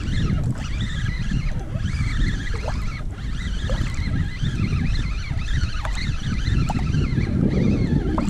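Wind rumbling on the microphone and water moving around a kayak on open water, with a constant busy chatter of high, wavering chirps above it.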